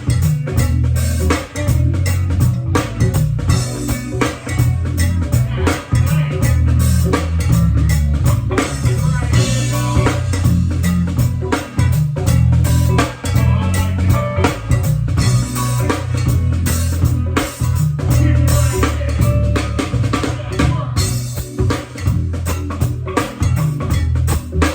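Band music led by a full drum kit, with dense bass-drum and snare hits over a heavy bass line.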